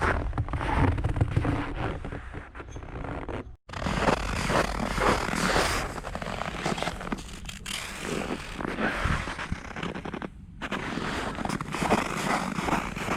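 Footsteps crunching and squeaking on dry, very cold packed snow at about −30 °C, a steady walking rhythm of short scraping crunches.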